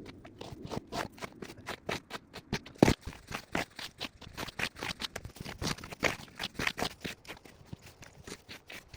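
Quick, irregular crunches and scrapes in snow, several a second, with one louder crunch about three seconds in.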